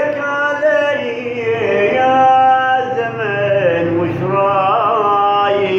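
A man singing solo in Arabic, drawing out long, ornamented notes that glide between pitches, with a wavering vibrato near the end.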